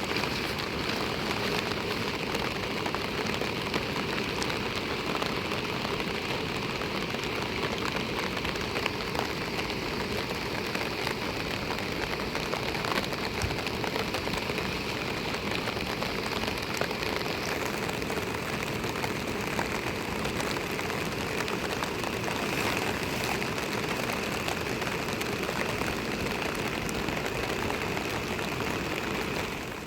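Steady rain falling, with many small drop impacts ticking through a constant wash of noise.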